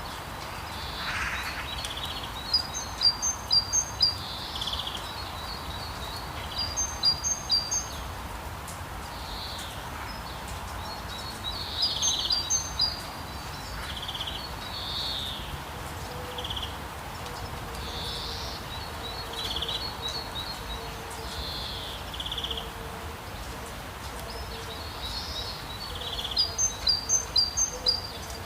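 Steady rain with songbirds calling over it. Four times a bird sings a quick run of about half a dozen high chirps, and shorter single chirps come in between.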